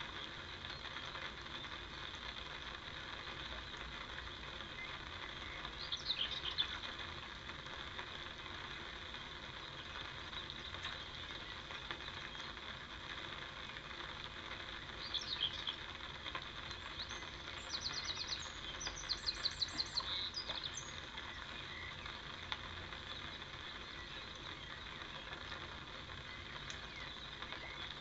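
Small birds chirping and calling over a steady outdoor background hiss, with a few short chirps and a quick run of repeated high notes near the middle.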